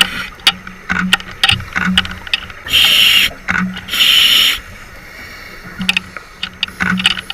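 Scuba diver breathing underwater through a regulator: short inhales with a low hum and clicks, and two loud rushes of exhaled bubbles about three and four seconds in.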